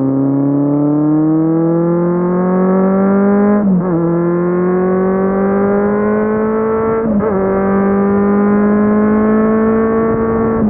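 Kawasaki Z750's inline-four engine accelerating under load, its pitch climbing steadily. There are two quick upshifts, about three and a half and seven seconds in, where the pitch drops a little before climbing again.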